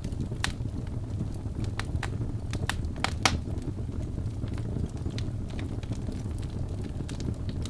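Wood fire burning in a fireplace: a steady low rush of flames with sharp crackles and pops from the burning logs, a few louder pops a little under halfway through.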